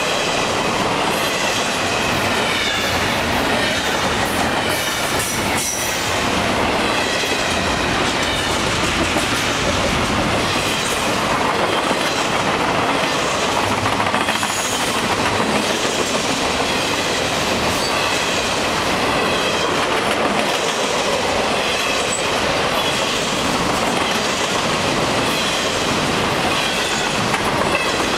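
Double-stack intermodal freight train of container well cars rolling steadily past at close range, with steel wheels clattering on the rails. A faint, wavering high squeal of wheels on the rails comes and goes.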